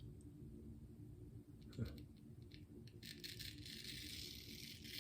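Shaving brush swishing through a very wet lather on the face: a soft, steady hiss from about three seconds in, after a few faint clicks, over a low steady hum.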